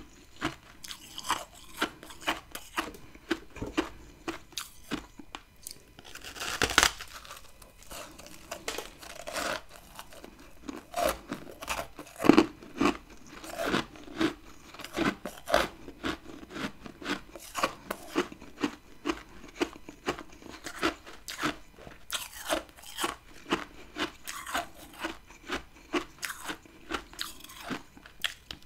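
Close-miked chewing of a chunk of freezer frost ice: a steady run of sharp crunches, about two a second, with a longer, louder bite about a quarter of the way in.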